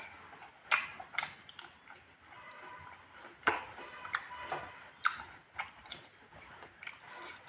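A person eating spicy pork: irregular sharp clicks and wet smacks of chewing, a few of them loud.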